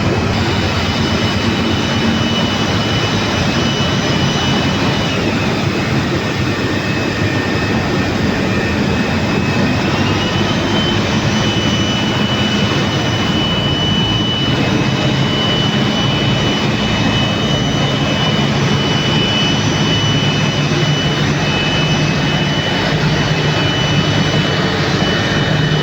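Airliner jet engines heard from inside the passenger cabin: a steady loud roar under a thin high whine. The whine drops in pitch about five seconds in and rises again about ten seconds in.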